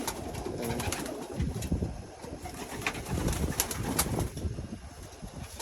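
Racing pigeons cooing in the loft, low and repeated, with a few sharp clicks about three to four seconds in.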